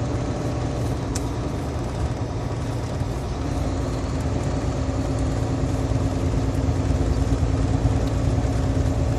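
Semi truck's diesel engine and road noise heard from inside the cab at highway speed: a steady low drone. A steady hum joins it about three seconds in, and it grows slightly louder.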